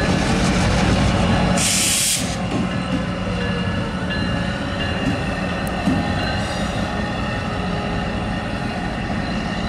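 Train rolling slowly over a grade crossing: railcar wheels rumbling over the rails, with the shoving diesel locomotive's engine running as it draws past. A brief hiss about two seconds in.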